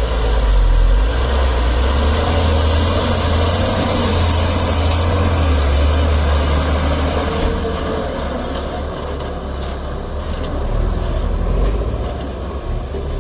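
Heavy diesel engine running, a loud, deep steady rumble that eases off somewhat about halfway through.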